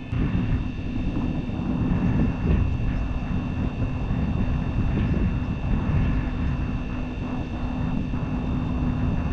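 Traeger pellet grill's new combustion fan motor running with a steady hum and a high whine over a low rumbling noise; the owner has had trouble with this fan and judges its bearing bad.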